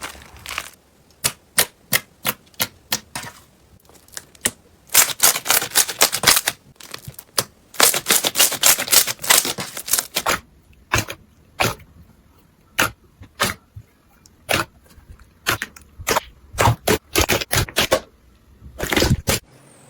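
Slime being pressed, stretched and poked, making sharp clicks and pops from trapped air. Single clicks come one after another in places, and dense crackling runs come in others.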